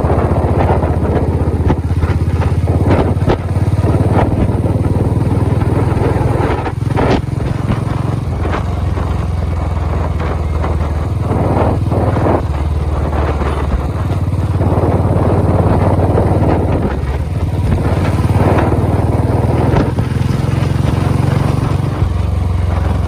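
A vehicle engine running steadily and loudly at close range, with a few short knocks and rattles over it.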